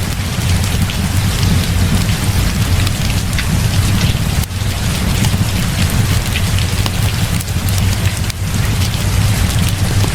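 Heavy rain falling steadily, with many small sharp drop hits over a continuous low rumble.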